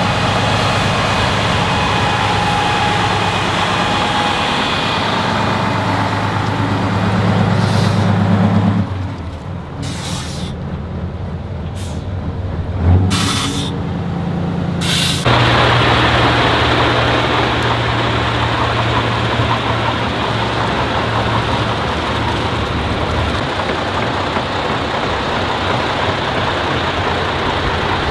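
Heavy truck engines running as trucks drive in. Midway there are a few short hisses like air brakes being released, and the engine sound changes abruptly a few seconds later.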